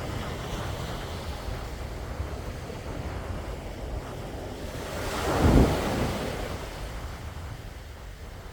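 Sea waves washing onto the shore, with wind buffeting the microphone in low rumbles. One wave swells and breaks about five seconds in, the loudest moment, then washes back.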